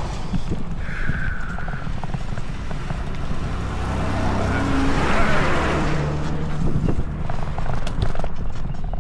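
Road noise while riding a bicycle through traffic: wind rumbling on the microphone, with a motor vehicle passing that swells and fades about five seconds in.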